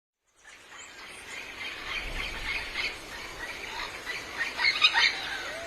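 Animal calls outdoors: a scatter of short, high-pitched squeals and chirps, loudest about four to five seconds in.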